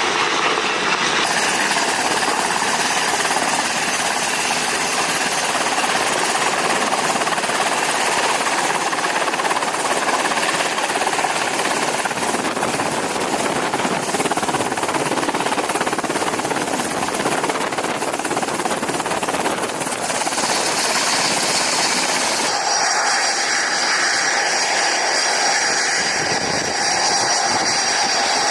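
Aircraft engines running loud and steady, with a high whine through most of the stretch. The sound changes abruptly about a second in and again near the end.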